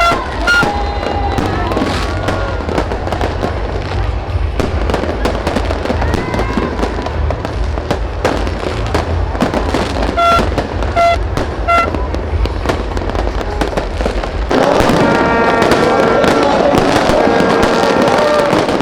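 Fireworks bursting in quick succession, a dense run of bangs over a heavy low rumble. About fifteen seconds in the rumble drops away, and sustained pitched tones sound over the continuing bangs.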